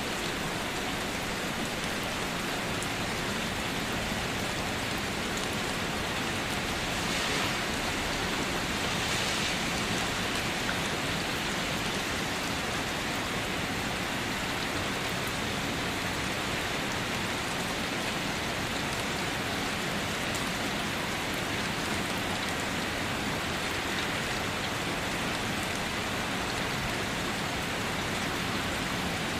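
Steady rain falling, with fine drops pattering on a surface; a little heavier for a couple of seconds about a quarter of the way in.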